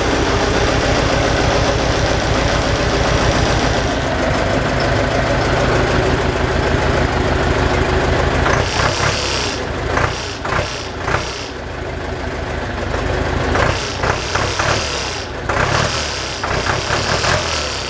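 T-40AM tractor's diesel engine idling with a steady, rapid firing beat shortly after a cold start, with a light knock present while it is still cold. From about halfway, irregular clicks and rattles are heard over the running engine.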